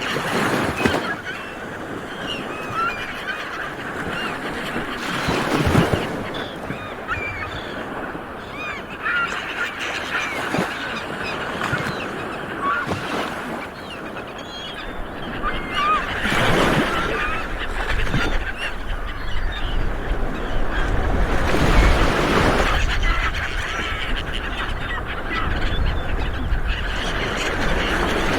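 A flock of seabirds calling continuously, many short overlapping honking calls at once, over a steady rushing background noise that swells several times.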